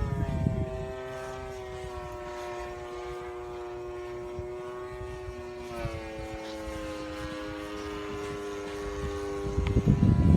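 Radio-controlled model airplane flying, its propeller giving a steady droning whine that drops in pitch about six seconds in. Wind gusts on the microphone near the start and end.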